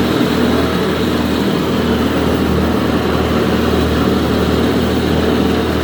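Tractor engine running steadily at a constant speed, with a strong low hum.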